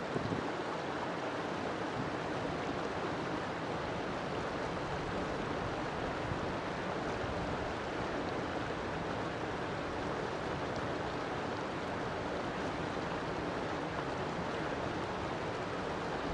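River water flowing steadily, a continuous even rush of current.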